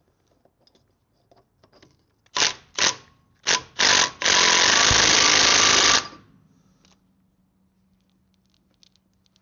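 Impact gun doing up bolts on the Defender's wheel hub: four short bursts, then one continuous run of about two seconds that stops abruptly.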